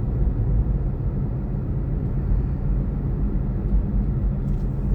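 Steady low road rumble inside a moving car's cabin: tyre and engine noise from a small four-door Toyota being driven.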